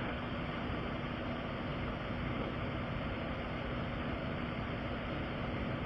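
A vehicle engine idling steadily, a low even hum with no clear changes.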